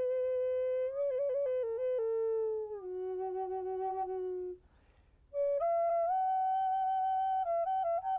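Background music: a slow solo flute melody of long held notes with quick ornamented turns between them, breaking off for about a second near the middle.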